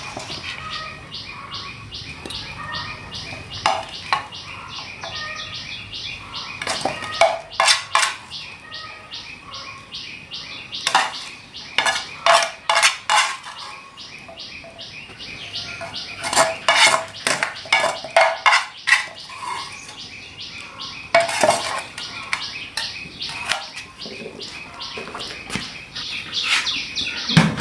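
Metal utensils clinking and scraping against a cooking pot and dishes in irregular bursts of sharp clinks.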